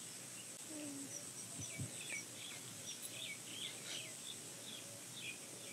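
Faint outdoor birdsong: small birds chirping in many short, high notes, over a steady high-pitched hiss.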